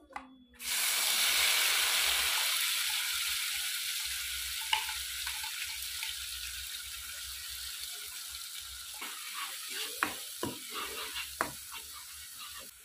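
Ground spice paste dropped into hot oil in a wok: a sudden loud sizzle starts about half a second in and slowly dies down. Over the last few seconds a spatula scrapes and clicks against the pan as the paste is stirred.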